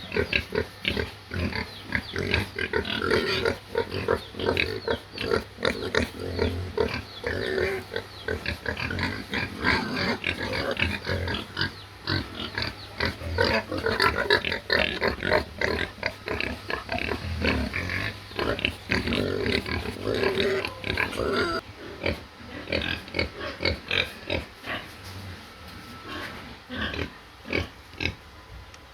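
Domestic pig grunting in a rapid run of short grunts that thins out and gets quieter about 22 seconds in.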